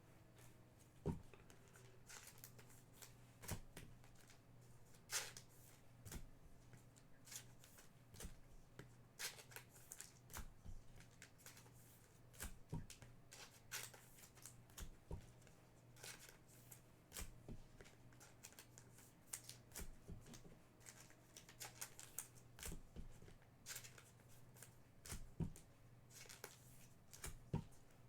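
Trading cards and packs being handled: scattered light clicks and rustles of cards and wrappers at irregular intervals, over a faint steady low hum.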